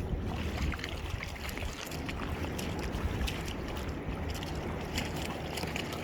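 Wind buffeting the microphone, a steady low rumble, over the wash of sea surf, with a few faint clicks.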